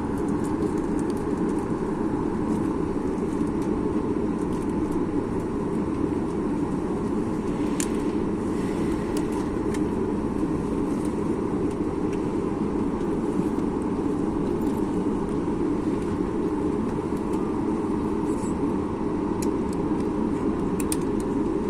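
Steady low rumble of cabin noise inside a Boeing 737 MAX 8, with its CFM LEAP-1B engines running and a few faint clicks.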